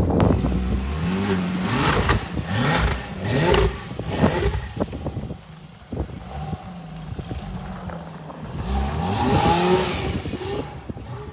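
Car engine revving in repeated bursts, its pitch climbing and dropping again and again, with some clatter.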